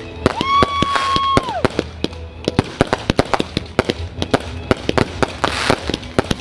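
Fireworks going off in a rapid string of sharp bangs, several a second, with a steady high whistle lasting about a second near the start.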